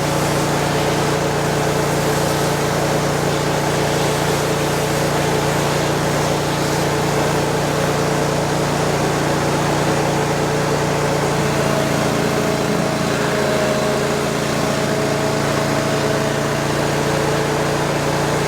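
Ditch Witch FX20 vacuum excavator running steadily: a constant machine hum with a noisy rush over it. About two-thirds of the way in, a higher tone joins.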